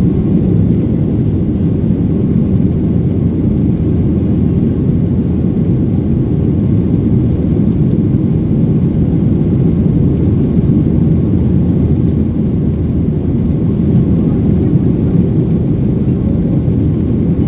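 Steady low rumble inside the cabin of a Boeing 737-900ER: its CFM56-7B jet engines and the rush of air along the fuselage, an even noise that stays at one level throughout.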